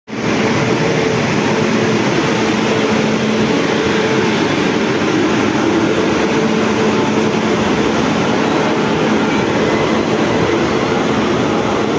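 Indian Railways passenger train moving past a station platform: a steady, loud rumble of coaches running on the rails, with a faint steady hum under it.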